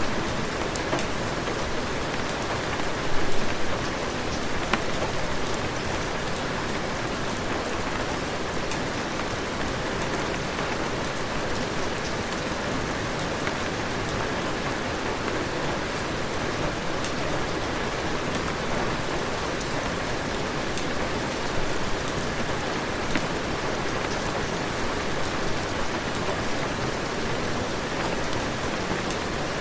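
Heavy rain falling steadily, an even hiss with scattered sharp ticks of drops, and a brief louder patch about three seconds in.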